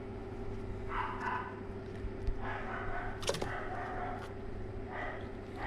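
Young animals giving short, high-pitched calls several times, over a steady hum, with one sharp click about halfway through.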